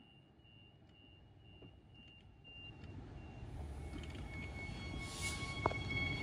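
A train approaching, its rumble growing steadily louder, with several steady high ringing tones coming in from about three seconds on. Over the first three seconds a high beeping tone sounds in short repeated pulses.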